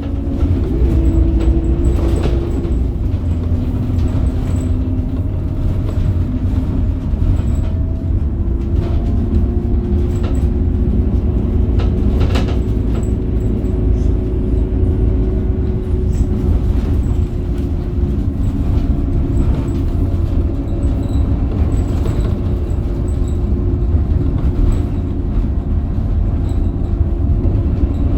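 Scania K270UB bus under way, its 270 hp Scania DC9 engine and ZF Ecomat automatic gearbox running with a steady low rumble. A whining tone drops in pitch a few seconds in, then slowly rises and falls again, with scattered clicks and rattles over the drone.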